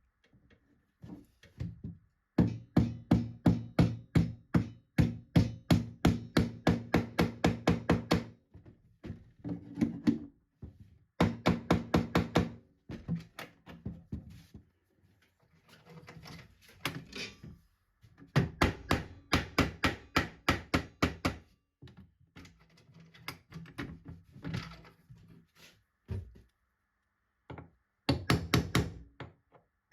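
Rapid, evenly spaced knocking on a hollow wooden chest, about four light blows a second. The blows come in runs of several seconds broken by short pauses, and each one rings with a low, hollow resonance.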